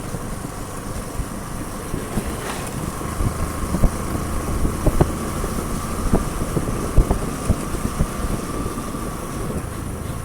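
Motorcycle running on the move, with wind rushing over the microphone and a few sharp knocks.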